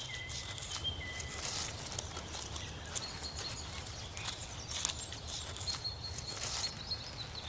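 Faint jungle ambience: thin, steady high-pitched tones over a low hum, with scattered soft crackles and rustles.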